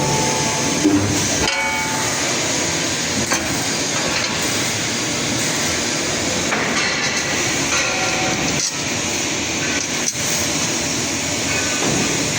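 Projection spot welding machine at work: a steady, dense mechanical noise with a few short metallic knocks.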